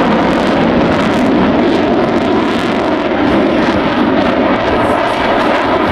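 Loud, steady airplane engine noise, a dense rushing sound with no clear pitch.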